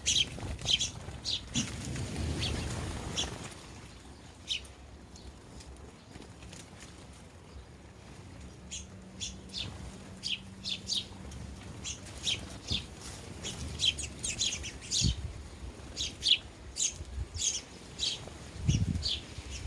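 Sparrows chirping at a feeder: many short, high chirps in quick runs, busier in the second half. A low rumble comes in briefly after about two seconds and again near the end.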